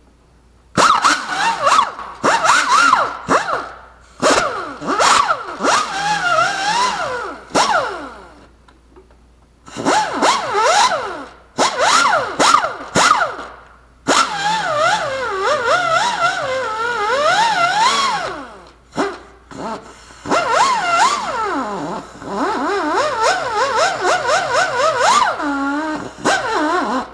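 A handheld power tool runs in repeated bursts with short pauses between them. Its pitch rises and falls as it loads and unloads against the work.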